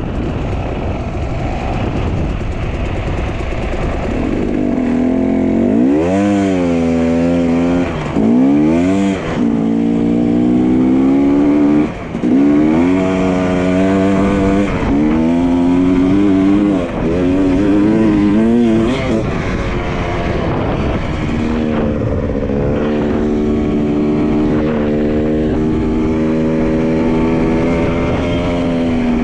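Dirt bike engine running under way, revving up sharply twice early on, with a short drop in revs about twelve seconds in, then holding a steady, wavering speed. Wind noise on the microphone throughout.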